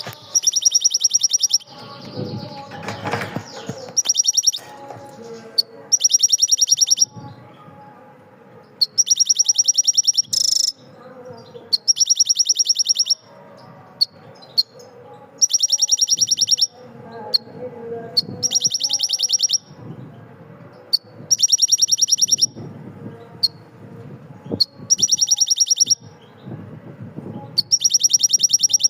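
A bird repeating a loud, high, fast trill, each about a second long, roughly every two seconds. Fainter mixed background sound fills the gaps between trills.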